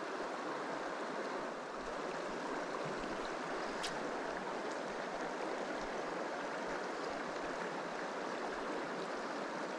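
Shallow mountain stream running over a riffle, a steady rushing with one faint click about four seconds in.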